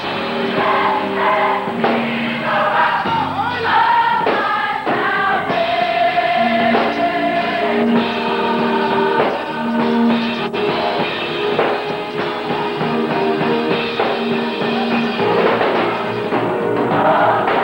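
A choir singing gospel music, with held, shifting sung notes over a steady low line.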